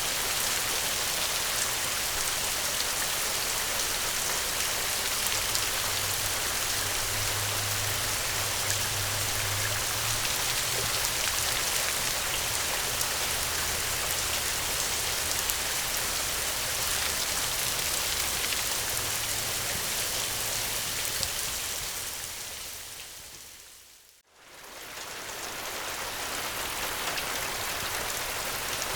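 Steady, heavy rain, with a low rumble underneath through the middle of the stretch. About 24 seconds in, the rain fades almost to silence and swells back up a second or two later, as at the join of a looped track.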